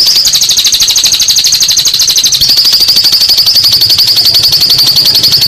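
Lovebird singing a long ngekek: a continuous, rapid, even high-pitched chattering trill, dropping slightly in pitch about two and a half seconds in.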